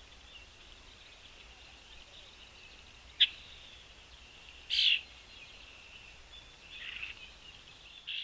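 Small birds chirping steadily at a feeder, a high, twittering chatter with brief louder bursts. There is a sharp click about three seconds in, and a louder, harsh, scratchy burst a little before five seconds.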